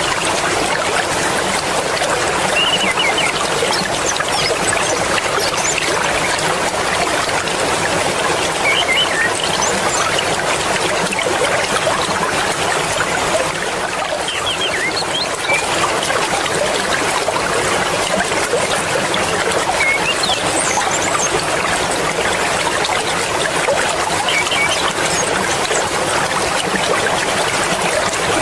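Swift mountain river water rushing and babbling steadily, with a few short high chirps here and there.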